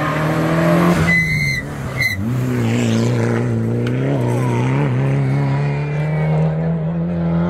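Rally car engine running hard at high revs. The pitch drops at a gear change about two seconds in, holds steady, then climbs again near the end.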